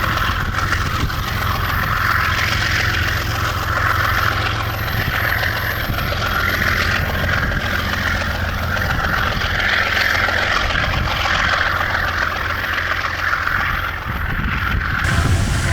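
Diesel freight locomotive running with a steady low engine drone, over a higher rushing sound that swells and fades about every one and a half seconds.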